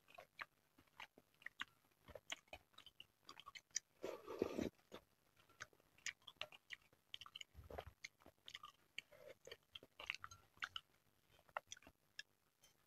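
Close-miked chewing of small meatballs in spicy egg sauce: many short, wet mouth clicks and smacks, with a louder, longer mouth noise about four seconds in.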